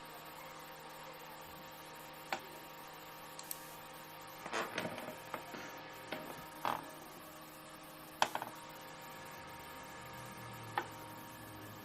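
Faint steady electrical hum with a few scattered clicks and small knocks.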